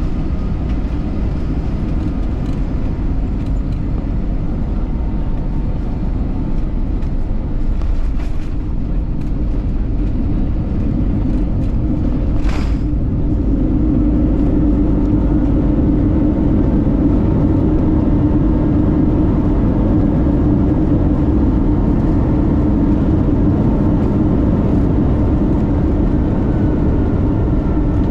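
Cabin noise aboard an Airbus A321 airliner: the steady low rumble of the jet engines and airflow, growing a little louder about halfway through, with one brief hiss near the middle.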